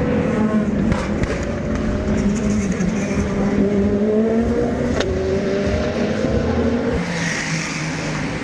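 Race car engines running on the circuit, several engine notes sliding slowly down and up as the cars go past. There is a sharp click about five seconds in.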